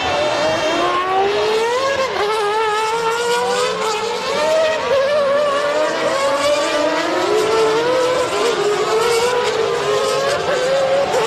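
Ferrari Formula One car's 3.5-litre V12 at full throttle, heard onboard, its pitch climbing with a few brief dips at gear changes.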